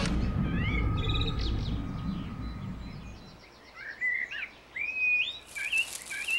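Songbirds chirping, a string of short whistled calls that rise and fall, thickest in the second half. Under the first three seconds a low rumble dies away.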